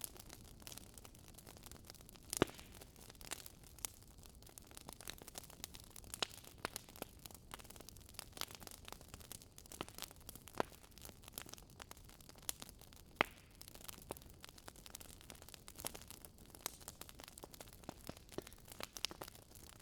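Wood fire crackling in a fireplace: irregular sharp snaps and pops over a soft steady hiss, with a few louder pops, the loudest about two and a half seconds in and again near the middle.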